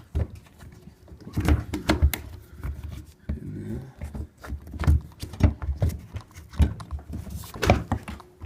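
Irregular knocks, clicks and rattles of parts being handled and pried loose while a washing machine is taken apart to reach its door lock.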